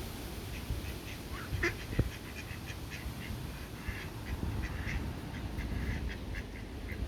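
Ducks quacking, a quick run of many short calls, over a steady low rumble, with a single sharp click about two seconds in.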